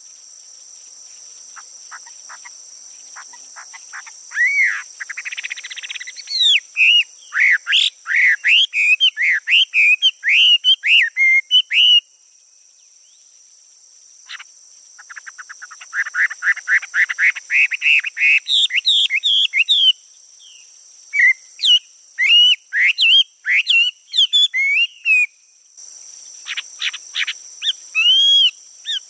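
Male songbird singing loud spells of rapid, gliding whistled notes and trills, three runs of song with short pauses between. A steady high drone of insects, crickets, runs underneath.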